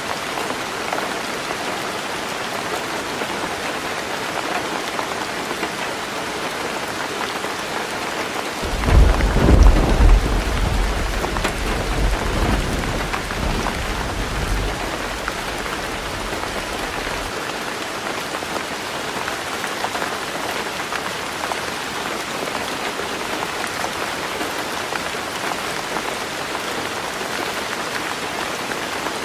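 Heavy rain falling on a roof, a steady hiss. About a third of the way in, a roll of thunder breaks in suddenly, loudest in its first couple of seconds, then rumbles away over about eight seconds.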